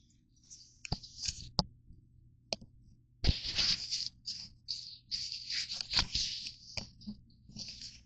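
Crunchy granola bars crunching and crackling in irregular bursts, with a few sharp clicks between them.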